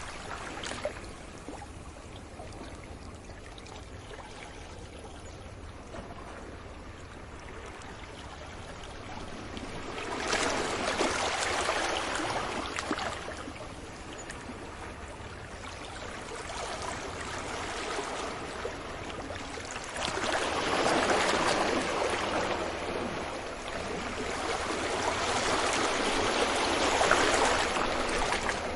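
Sea waves breaking gently on a beach, the surf hissing and washing in continuous swells. Louder surges come about ten seconds in, about twenty seconds in, and again near the end.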